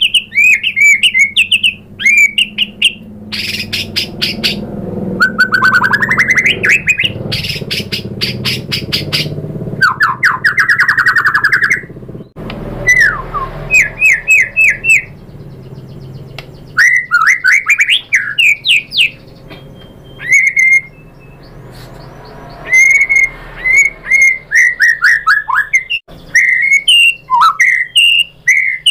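White-rumped shama singing a loud, varied song of fast phrases: rapid runs of repeated whistled notes, quick rising and falling slurs, and fast clicky rattles, broken by short pauses.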